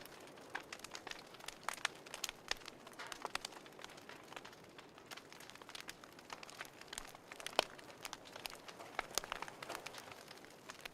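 Wood fire crackling, with irregular sharp pops and snaps over a soft hiss; one louder pop comes about two-thirds of the way through.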